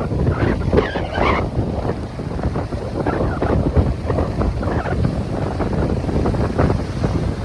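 Strong coastal wind buffeting the microphone, with waves breaking on the shore beneath it.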